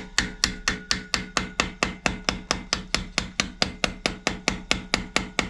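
A hammer tapping steadily on metal, about four blows a second, each with a short ring, knocking a stuck water pump loose from below on a Ford 4.6 3V engine.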